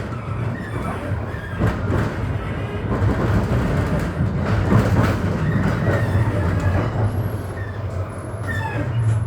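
Astra Imperio Metropolitan tram running along the track, heard from on board: a steady low hum under the rumble and rattle of the wheels on the rails, with a few sharp knocks and some brief squeals.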